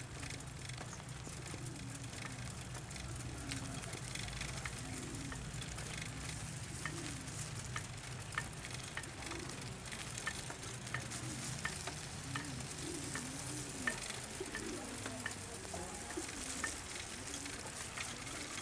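A steady light patter of falling water drops, with many small scattered ticks over an even hiss and a low steady hum underneath.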